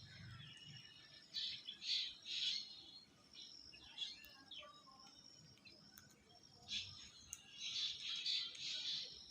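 Birds chirping in two bouts of quick, high-pitched calls, one about a second in and another a few seconds later near the end.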